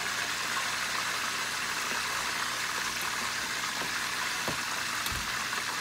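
Chunks of pork belly deep-frying in hot oil under a glass lid: a steady sizzling hiss with a few faint pops from the oil spattering.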